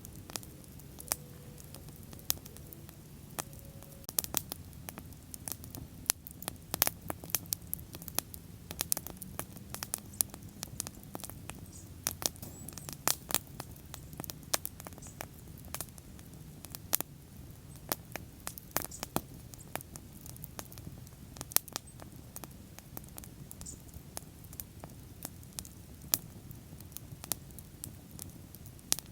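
Wood bonfire burning: sharp pops and crackles come thick and irregular, densest in the middle stretch, over a low steady rumble of the flames.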